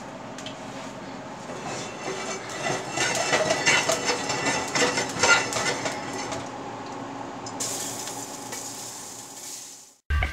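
Hot fat sizzling and crackling in a frying pan as pieces of Wagyu beef go in to sear. The crackling is thickest a couple of seconds in, then settles to a softer sizzle that cuts off near the end.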